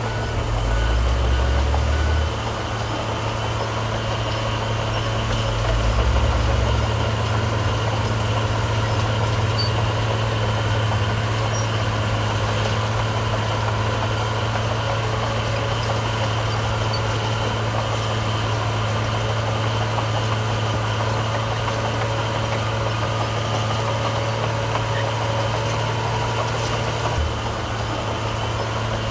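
Heavy diesel construction machinery engine running steadily at low revs, with two brief deeper, louder pushes of the engine about a second in and again about six seconds in.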